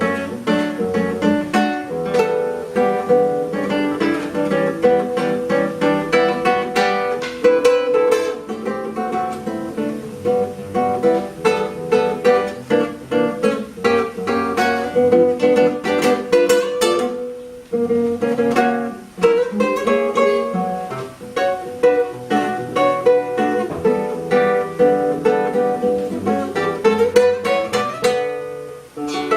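Solo acoustic classical guitar playing a jazz-style concert piece in picked notes and chords. It starts straight after a short silence, with brief breaks in the phrasing about two-thirds of the way through and near the end.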